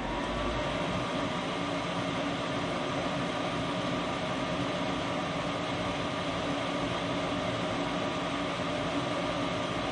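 Gas furnace draft inducer motor spinning up with a rising whine that levels off within the first second, then running steadily. This is the first step of the furnace's startup sequence, venting the flue before ignition.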